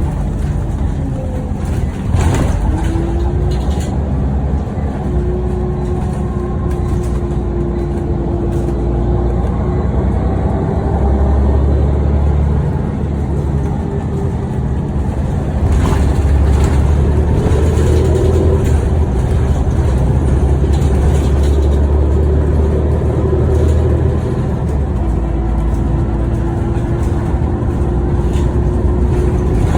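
Scania OmniCity bus under way, heard from on board: a steady engine rumble that grows deeper and heavier for about half the time in the middle, with a thin whine over it and a couple of brief knocks.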